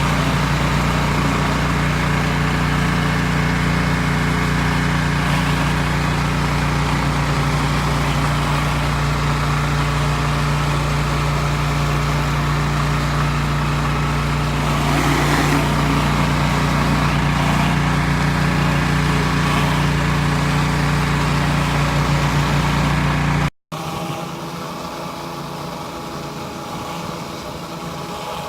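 Pressure washer engine running at a steady drone while cleaning concrete with a surface cleaner. It cuts out for a moment about 23 seconds in, then carries on quieter and thinner.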